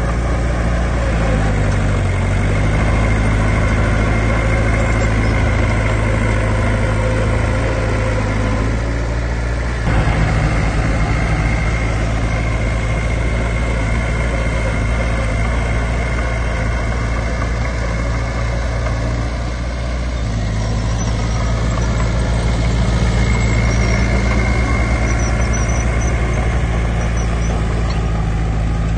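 Heavy diesel earthmoving machinery running continuously, its engine note dipping and rising a couple of times, with a thin high whine over it. There is one sharp knock about ten seconds in.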